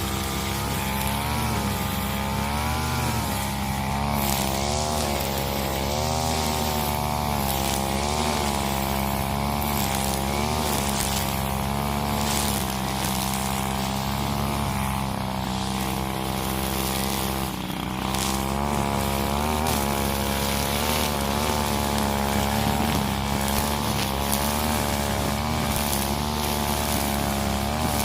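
Husqvarna 541 brush cutter's two-stroke engine running at high revs while clearing undergrowth, its pitch wavering up and down as the load changes. The engine note dips briefly about two-thirds of the way through.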